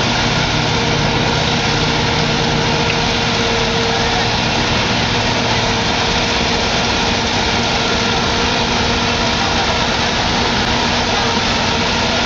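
Heavy vehicle engine running steadily, a dense mechanical drone with a few steady tones in it.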